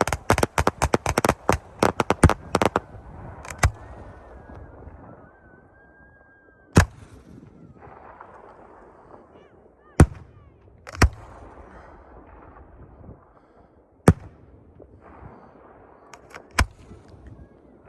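Fireworks going off: a rapid string of sharp cracks for about the first three seconds, then single loud bangs every few seconds, six in all. One bang is preceded by a short steady whistle.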